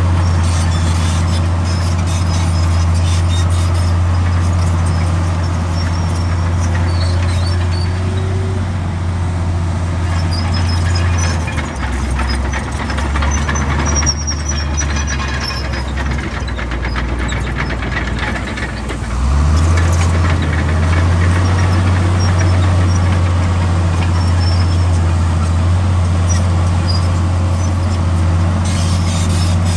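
Heavy diesel engine of earthmoving machinery running steadily. Its engine speed drops for about eight seconds near the middle, then comes back up. Faint high squeaks sound over it now and then.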